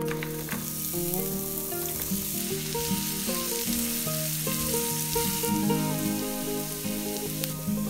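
Diced onions dropping into hot oil in a nonstick frying pan and sizzling steadily as they are stirred with a spatula, with a few soft clicks as the pieces land. Light background music plays underneath.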